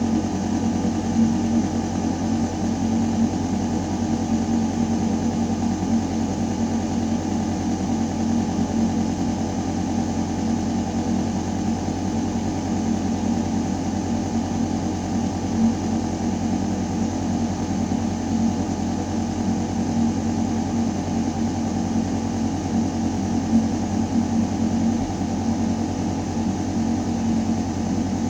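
Building ventilation system running: a steady, low mechanical hum with air moving through metal ductwork.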